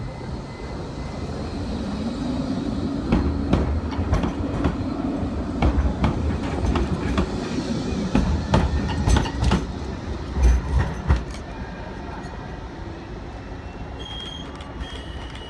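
Blackpool Bombardier Flexity 2 tram pulling away, its motor hum rising in pitch as it gathers speed. A run of clicks and clunks follows as the wheels pass over rail joints and points. A faint high whine near the end.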